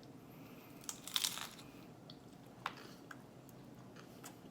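A bite into a crunchy, topping-loaded Del Taco Crunchtada shell: a loud crackly crunch about a second in, followed by a few fainter crunches and clicks of chewing.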